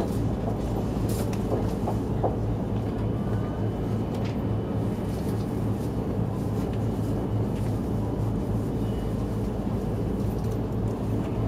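Steady low hum inside the passenger car of a stationary E5 series Shinkansen, its onboard equipment running while the train stands at the platform, with a few faint clicks in the first two seconds.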